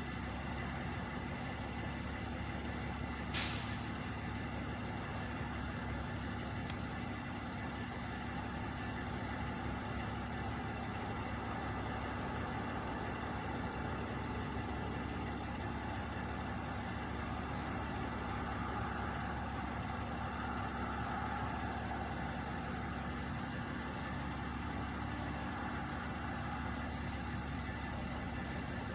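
Truck diesel engines idling steadily, with one short air-brake hiss about three seconds in.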